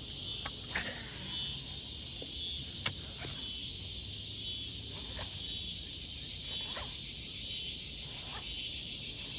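Steady, high-pitched chorus of insects, with a few faint clicks and one sharp click about three seconds in.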